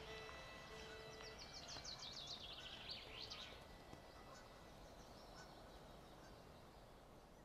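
Faint birds calling across a wetland at dusk: a fast, high trill falls in pitch from about a second and a half in to about three and a half seconds, with a few fainter short calls after it.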